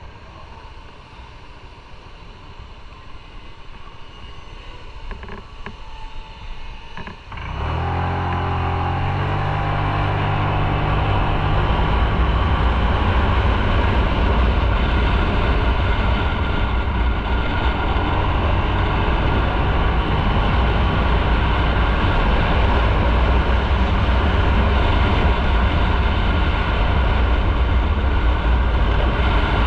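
Motorcycle on the road, fairly quiet at first. About seven seconds in it accelerates hard, its engine note climbing, then runs on loud and steady with heavy road and wind noise.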